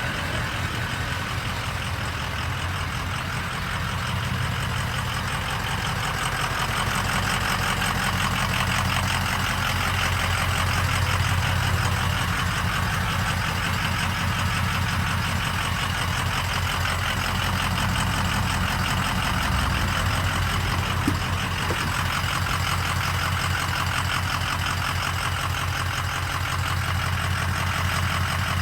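2004 Ford F-350 Super Duty's 6.0-litre Power Stroke V8 turbo diesel idling steadily, with the clatter of a diesel.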